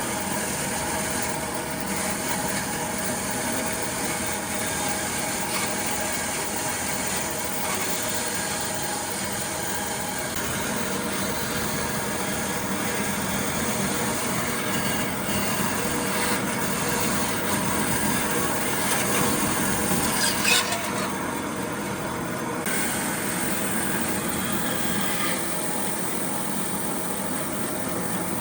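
Woodworking power tool running steadily with a steady motor hum, a sharp click about twenty seconds in, and a change in its sound soon after.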